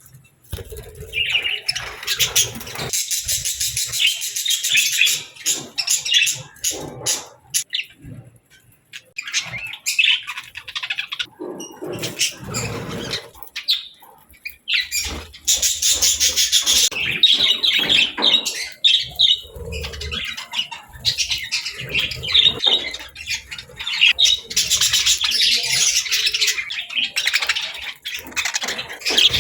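Budgerigars chirping and chattering in long busy bouts of quick high notes, broken by a few short pauses.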